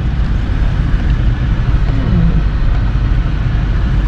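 Tow vehicle running while pulling a travel trailer, heard from inside the cab: a steady low engine and road rumble.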